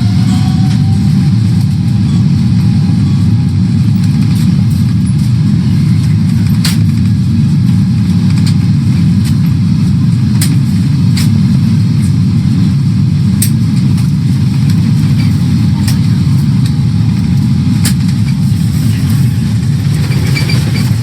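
Steady low rumble of a Boeing 777-300ER heard inside the cabin, with scattered sharp clicks and rattles.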